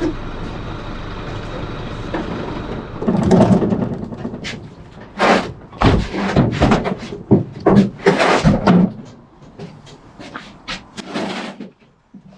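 Truck engine running steadily, then a run of loud clanks and knocks over several seconds as the empty IBC tank with its steel cage is shifted and set down, tailing off to a few lighter knocks.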